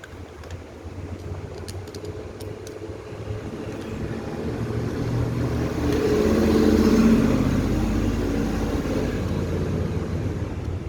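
An engine running, with a steady low hum that grows louder to a peak about seven seconds in, then eases off a little.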